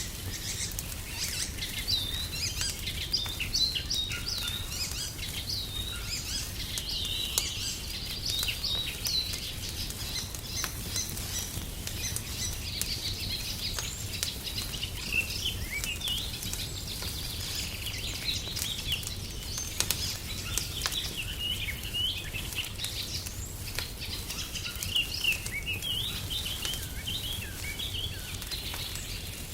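Small birds chirping and twittering continuously, over scattered wood-fire crackles and a steady low rumble.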